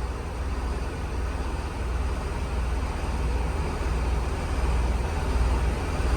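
Steady low mechanical drone of machinery running inside the truck, with an even hiss over it and no change in pitch.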